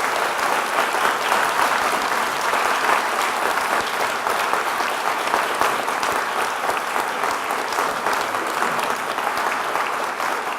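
Large indoor audience applauding steadily, a dense continuous clapping that tapers slightly near the end.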